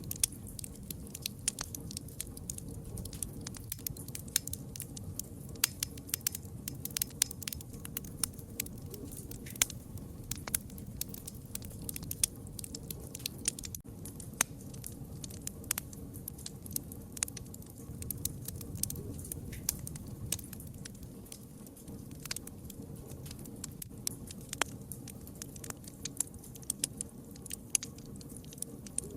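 Wood fire crackling, with many irregular sharp pops and snaps over a low, steady rumble of the flames.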